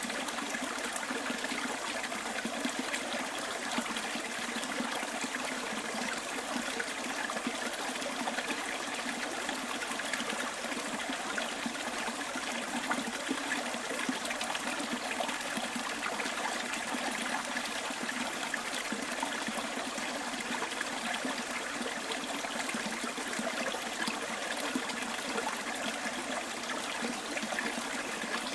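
Small stream trickling and babbling over stones, a steady unbroken rush of water.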